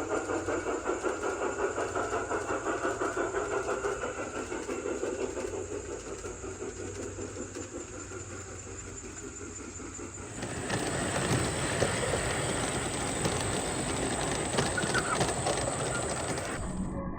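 A garden-scale model train running: a fast, even rhythmic beat that fades over about ten seconds. Then the sound changes abruptly to a louder, noisier clatter of many small clicks.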